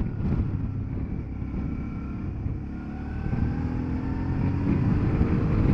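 Motorcycle engine running on the road, heard from the rider's own bike; from about halfway through, its pitch rises steadily as the bike accelerates.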